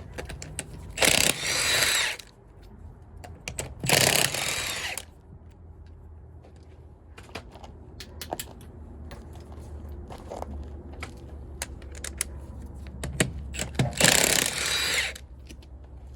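A power tool run in three bursts of about a second each, with light clicks and clinks of tools between the bursts.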